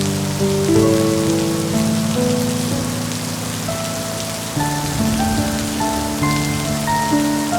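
Steady rain falling, with soft, slow music of long held notes playing over it.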